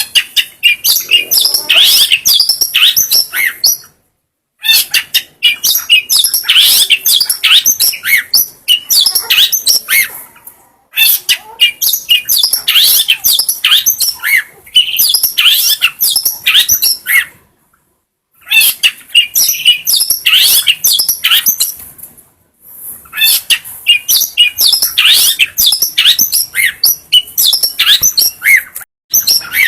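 Long-tailed shrike (cendet) singing a rapid, varied song of quick high notes, in five long phrases of several seconds each with short silent pauses between them.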